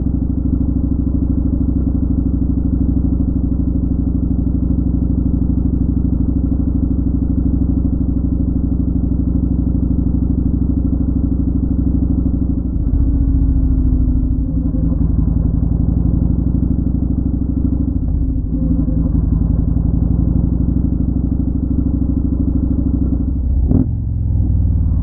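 Motorcycle engine running steadily on the road. The engine note shifts about halfway through and again a few seconds later, and there is one sharp knock near the end.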